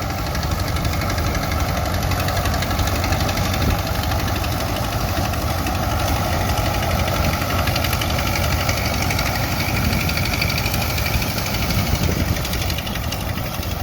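Small vintage Caterpillar crawler tractor and the Dearborn-Wood Brothers combine it pulls, their engines running steadily as the rig maneuvers.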